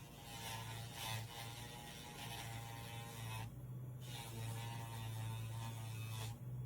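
Casfuy electric dog nail grinder running with a steady motor hum and buzz while grinding a dog's nails. The higher buzzing part drops away briefly twice, about three and a half seconds in and near the end.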